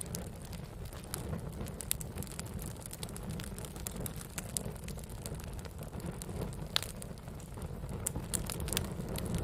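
Wood campfire crackling: irregular sharp pops and snaps over a steady low rumble of burning, with one louder pop near the end.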